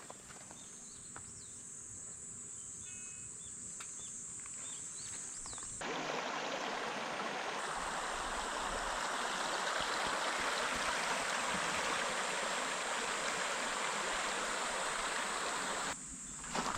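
Insects trilling in a steady high buzz. About six seconds in it cuts suddenly to the steady rush of a small stream's flowing water, which holds until the insect sound returns near the end.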